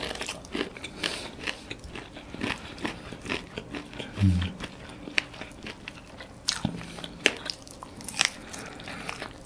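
Close-miked chewing and biting of roasted chicken eaten by hand, a stream of irregular sharp clicks, crunches and wet mouth smacks.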